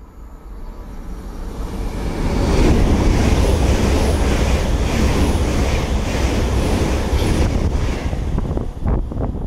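Great Western Railway passenger train passing through the station at speed on the near line, without stopping. It is a loud rush of wheels on rail and moving air that builds over about two seconds, holds for about five seconds, then dies away, with a few thumps near the end.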